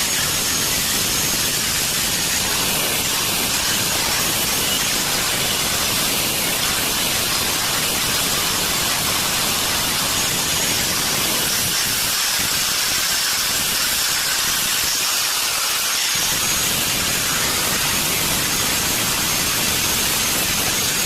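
Water running steadily from a tap, a constant hiss.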